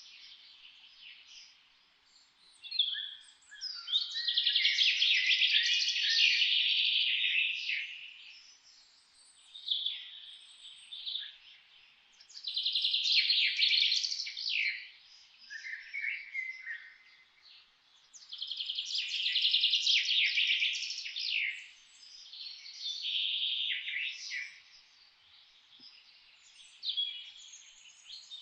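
Songbirds singing: several high, fast-trilled song phrases of a few seconds each, with quieter gaps between them.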